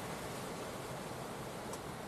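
Strong gusty wind blowing over the microphone, a steady rushing noise with an uneven low rumble.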